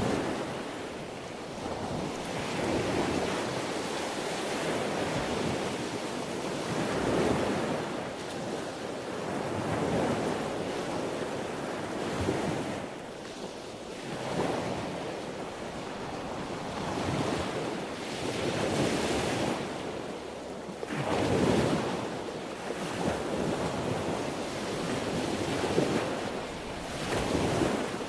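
Sea waves breaking and washing on the shore, a steady rush that swells and ebbs every few seconds, with wind in the background.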